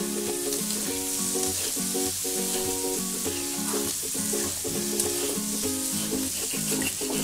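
Cumin potatoes sizzling in a hot metal pan as a metal spatula stirs and tosses them, over background music with a simple stepped melody.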